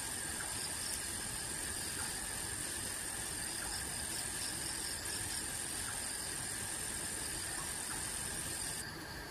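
A steady chorus of night insects chirring, with a continuous high trill that cuts off abruptly shortly before the end.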